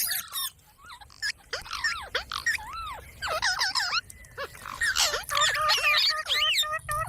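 Parrot chattering and squawking in a quick run of short calls that rise and fall in pitch, with a brief lull about a second in.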